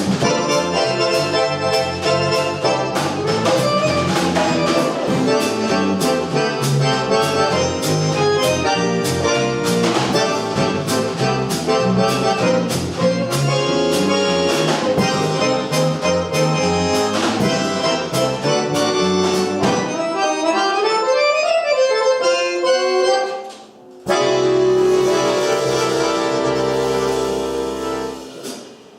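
Jazz trio of accordion, bass guitar and drum kit playing an up-tempo tune. About twenty seconds in, the bass and drums drop out and the accordion plays a short run on its own that rises and falls. Then the trio comes back in on a long held final chord that fades away near the end.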